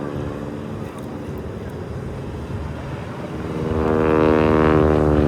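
Waco UPF-7 biplane's radial engine running at a steady throttle during an aerobatic routine, its drone swelling much louder from about three and a half seconds in as the plane comes close.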